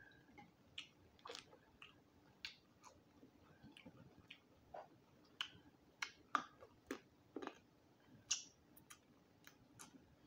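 Chewing roasted quail close to the microphone: irregular sharp crunches and mouth clicks, with a few louder ones in the second half.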